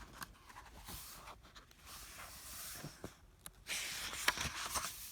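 Paper rustling and light clicks as a picture book's pages are handled and turned, loudest for a second or so near the end.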